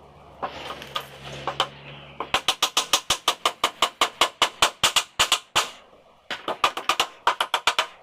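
Nails being driven into a wooden sofa frame: a fast, even run of sharp knocks on wood, about six a second, a brief pause, then a second run. A steady machine hum runs beneath in the first couple of seconds.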